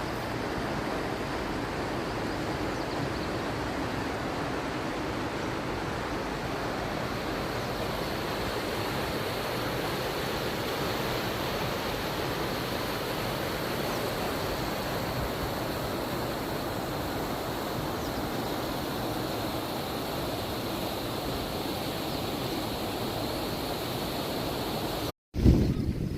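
Steady rush of flowing water, even throughout. Near the end the sound drops out for a moment, then a sudden loud low rumble of wind on the microphone follows.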